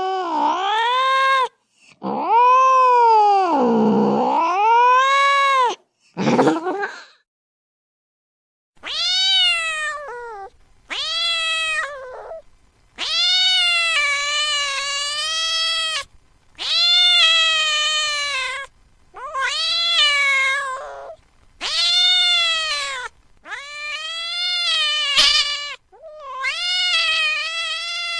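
A cat crying: a string of long, drawn-out wailing meows, each rising and then falling in pitch, one after another, with a pause of about two seconds partway through.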